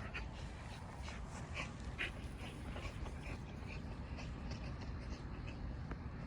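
Dogs panting faintly, with a few short soft sounds scattered through; the dogs are worn out after running loose.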